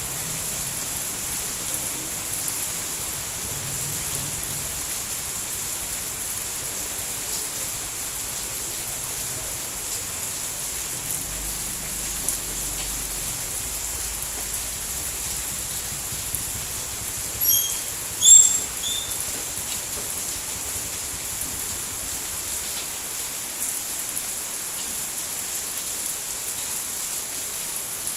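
Steady rain falling, an even hiss. A couple of short, high chirps stand out about two-thirds of the way through.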